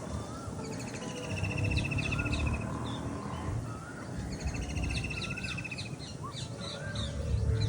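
Several wild birds calling together: a rapid pulsed trill runs for about two seconds twice, starting about half a second in and again near the middle. Short high chirps and looping whistled notes come between the trills, over a low background rumble.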